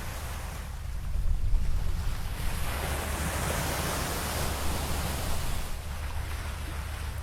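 Rough water and waves rushing, with wind buffeting the microphone as a steady low rumble; the rush swells louder about a second in, then settles.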